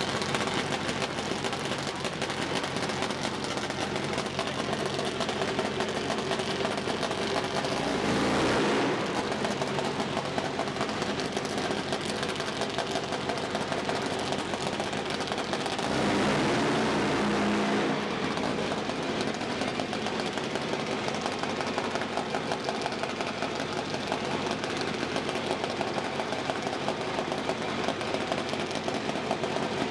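Car engines running steadily at a drag strip, with two louder swells about eight and sixteen seconds in.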